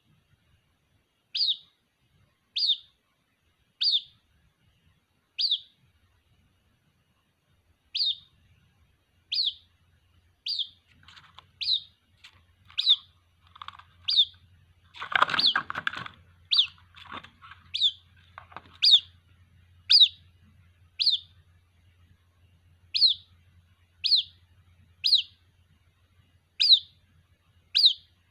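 White-breasted waterhen (ruak-ruak) chick calling for its mother: short, high peeps, each a quick falling note, repeated about once a second. About halfway through, a louder, rougher noise breaks in for a second or so among the peeps.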